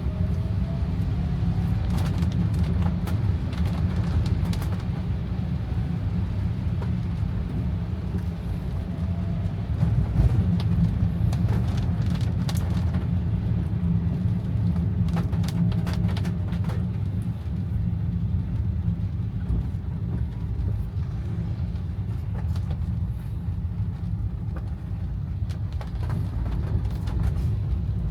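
Car cabin noise: a steady low rumble of engine and road, with scattered sharp ticks.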